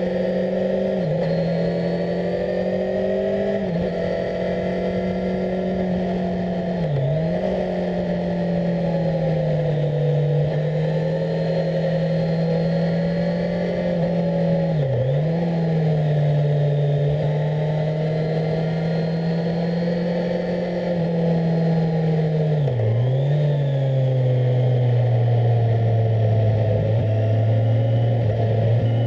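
Onboard sound of a 2018 Kawasaki Z1000SX's inline-four engine running at steady revs, with several brief dips in pitch. It settles to a lower note about three-quarters of the way through.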